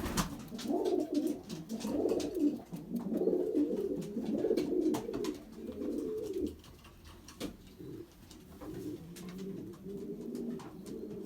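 Racing pigeons cooing in a small loft. The low coos come in close bursts for about the first six seconds, then go fainter, with a few light clicks among them.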